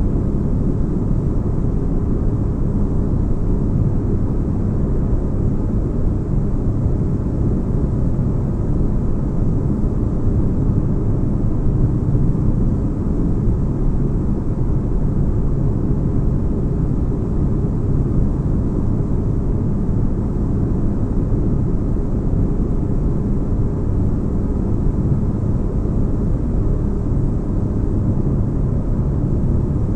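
Steady deep rumble of a sci-fi spaceship ambience track: low, even noise like white noise with deep bass, holding unchanged throughout.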